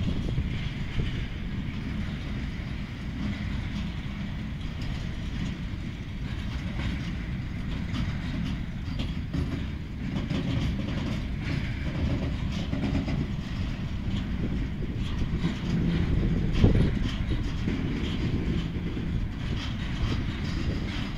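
Freight train rolling by: a steady low rumble of wagons with scattered clicks of wheels on the track, and one louder knock about three-quarters of the way through.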